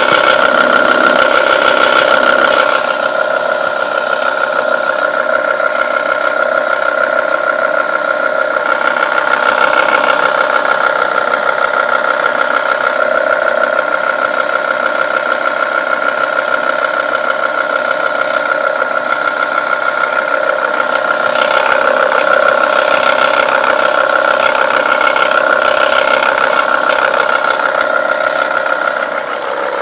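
BMW E60 M5's 5.0-litre V10 idling from a cold start with a steady, rapid diesel-like clatter, a little louder for the first couple of seconds.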